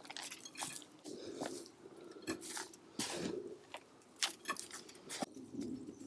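Hands rummaging and digging through loose soil and mulch in a potato-growing bucket, giving an irregular run of crunching, crackling and rustling.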